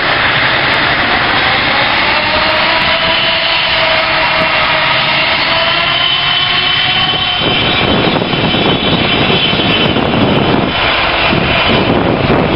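Airliner engines passing close, a loud steady whine with faint slowly gliding tones that turns into a rougher, deeper rumble about two thirds of the way through.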